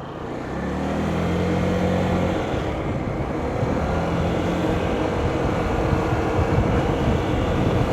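A vehicle's engine running steadily while on the move, with wind and road noise. A low engine note swells about half a second in and eases off after a couple of seconds.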